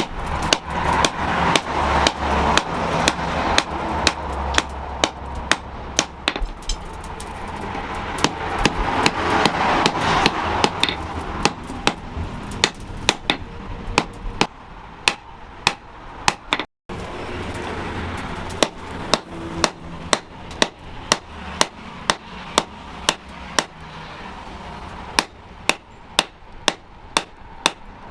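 Blacksmith's hammer striking steel on an anvil in a steady rhythm of about two blows a second, forging the metal, over a steady background hiss.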